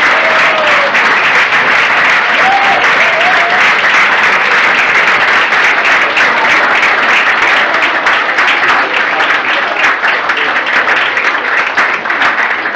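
Audience applauding, dense steady clapping that thins slightly near the end.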